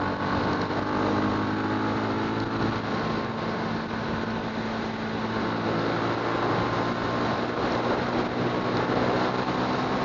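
Motorcycle engine running at a steady pitch while riding, over a steady rush of wind and road noise.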